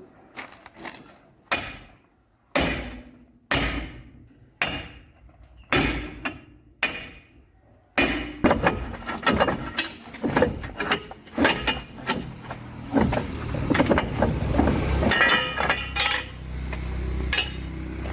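Heavy hammer blows on steel while a pin is driven out of a bulldozer track chain: single ringing strikes about once a second, then from about halfway through a louder, continuous clatter of rapid metal impacts over a low rumble.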